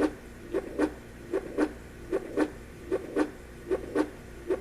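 Recorded heartbeat sound from a Conair SU7 sound-machine clock radio's speaker: a steady lub-dub, pairs of soft thumps repeating a little more than once a second.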